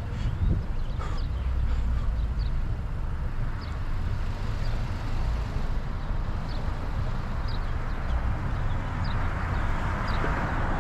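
Steady low wind rumble on the microphone while riding an e-bike outdoors, with birds chirping briefly and repeatedly in the background. Road traffic noise swells near the end.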